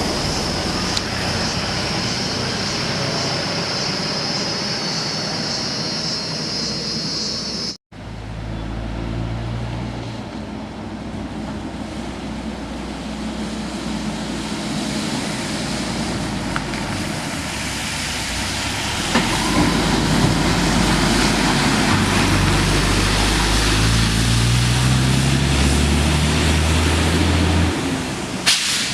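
Heavy road vehicles' engines running past. The audio cuts suddenly about eight seconds in. In the second part an engine's pitch climbs in steps, as in accelerating through the gears.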